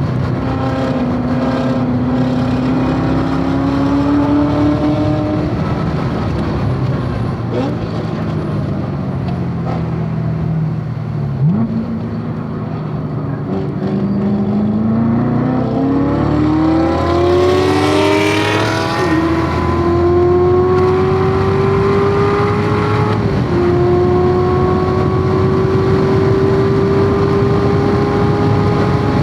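Corvette C7 Z06's supercharged V8 at track pace: the engine note falls through a braking zone with a quick rev blip on a downshift, then climbs steadily under full throttle, drops once at an upshift and climbs again. A brief rushing hiss sounds midway through the pull.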